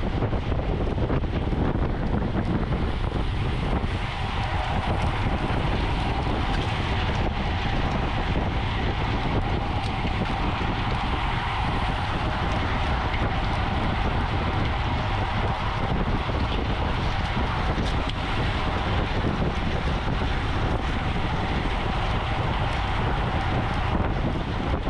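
Steady wind rush over the microphone of a camera riding along in a road bike race, with continuous road and tyre noise beneath it.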